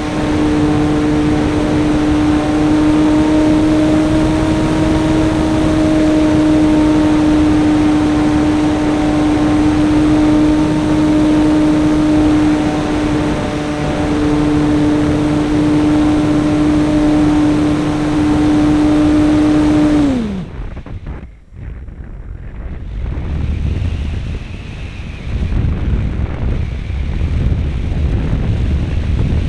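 RC model airplane's motor and propeller running at a steady high-pitched drone, heard from a camera on board; about two-thirds of the way through the pitch drops and the motor cuts off, leaving only wind rushing past the airframe as it glides.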